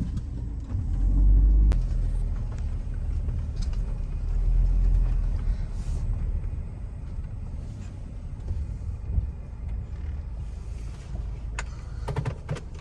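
Car driving slowly, a steady low rumble of engine and road noise that swells twice early on, with a few sharp clicks near the end.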